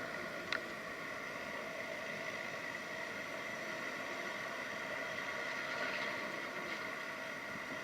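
A seaplane's turboprop engines running steadily in the distance, a whine of several steady tones over a rushing noise. There is a short click about half a second in.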